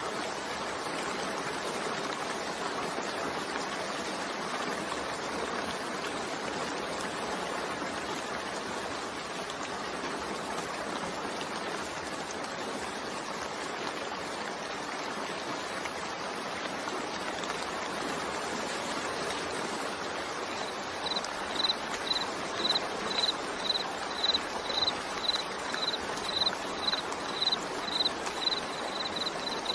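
Steady rain falling. About two-thirds of the way in, a high-pitched chirp starts repeating about twice a second, louder than the rain.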